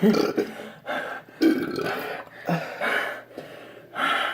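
A person burping several times in short bursts, right after gulping milk.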